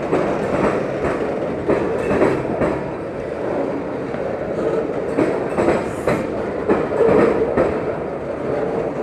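Freight train cars rolling past, picking up speed, with wheels clicking over rail joints and the cars rattling and knocking.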